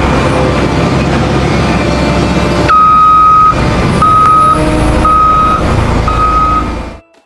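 A vehicle engine running, then a reversing beeper comes in: one long beep followed by three shorter beeps about a second apart, over the engine. All sound cuts off suddenly just before the end.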